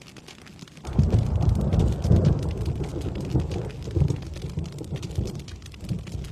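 Steady rain with dense pattering drops, and about a second in a roll of thunder breaks in suddenly, a low rumble loudest over the next second or two that then fades away.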